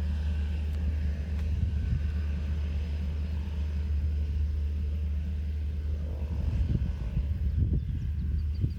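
Cessna 208 Caravan's single turboprop engine running as a steady low rumble, with faint higher tones in the first couple of seconds. Irregular low thumps come in over the last few seconds.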